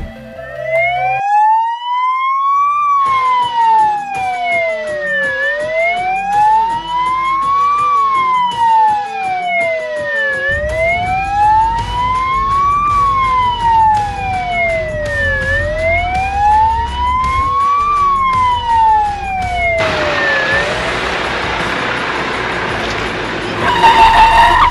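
Fire engine siren wailing, its pitch slowly rising and falling about every five seconds, over a low engine rumble. Near the end a brief loud blare sounds.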